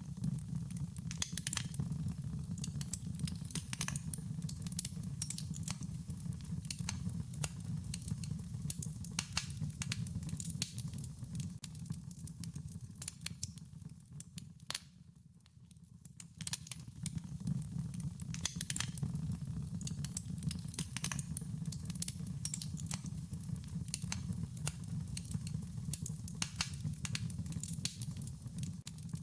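Fire crackling: a steady low rumble of flames under frequent sharp pops and snaps. The rumble fades briefly about halfway through, then comes back.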